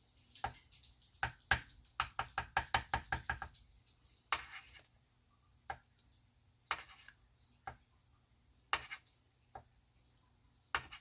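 Light taps and knocks on a tabletop: a quick run of about a dozen taps between one and three and a half seconds in, then single taps about once a second.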